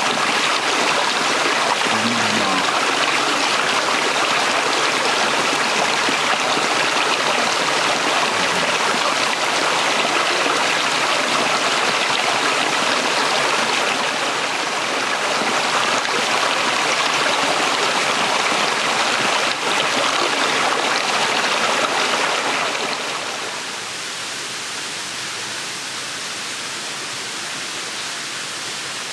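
Shallow stream flowing over rocks: a steady rushing of water that turns quieter about three quarters of the way through.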